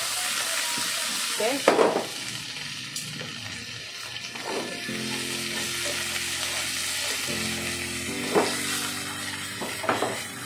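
Sliced onion, garlic and green vegetables sizzling in hot oil in a nonstick pan over a gas flame as they are stir-fried and tossed, with a few sharp knocks of the pan and chopsticks.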